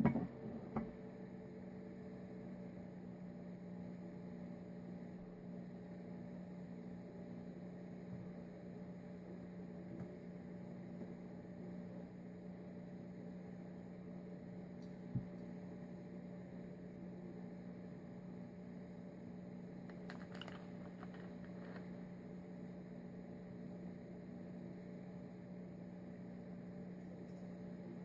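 A steady low hum throughout, with a single sharp click about fifteen seconds in and a few faint ticks around twenty seconds.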